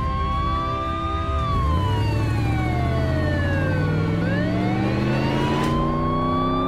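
Cartoon siren sound effect wailing slowly: its pitch slides down for about three seconds, then climbs back up. Under it, a vehicle engine rises steadily in pitch as it speeds up.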